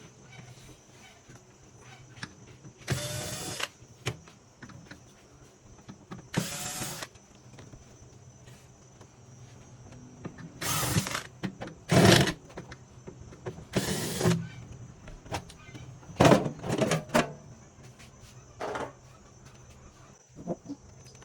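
A small electric motor, most likely a cordless screwdriver, whirring in about nine short bursts of half a second to a second each, while the microwave's casing is being opened.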